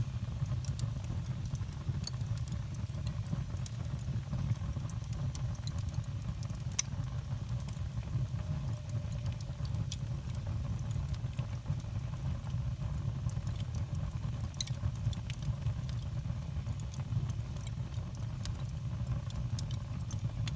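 Fire burning in a fireplace: scattered sharp crackles and pops at irregular intervals over a steady low rumble.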